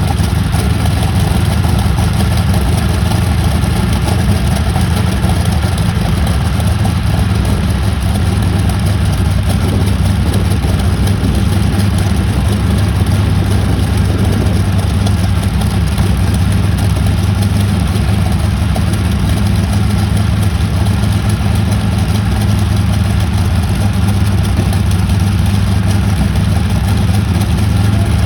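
Pratt & Whitney radial aircraft engine running steadily at a low, even speed on its first run in 18 years, a deep continuous drone with no revving or stalls.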